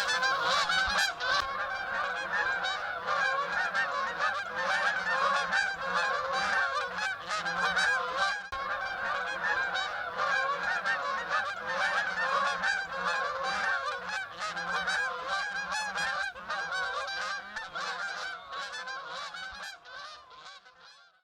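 A flock of Canada geese honking in flight, many overlapping honks at once, fading out over the last few seconds.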